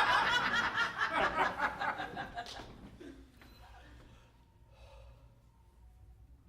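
Audience laughing. The laughter dies away over about three seconds, leaving a quiet room with a few faint chuckles.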